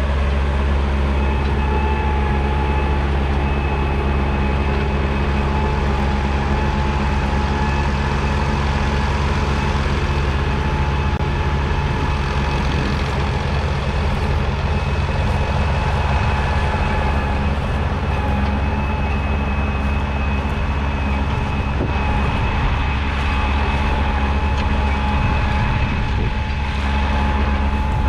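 1975 Massey Ferguson 1200's 5.8-litre six-cylinder diesel engine running at a steady speed, with a thin steady whine over the deep engine note.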